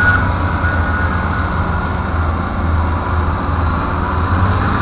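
Vehicle engine running steadily, heard from inside the cab: an even low rumble.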